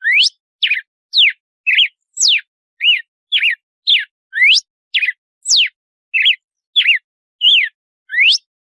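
Red-cowled cardinal (galo-de-campina) singing its 'açoite' song: a run of short, clear whistled notes, about two a second, some sweeping steeply upward and others falling or dipping.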